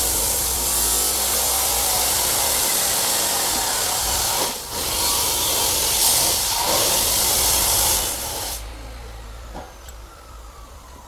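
A handheld power tool running loudly with a steady rasping noise, with a brief dip about four and a half seconds in. It stops about eight and a half seconds in, followed by a faint falling whine as it spins down.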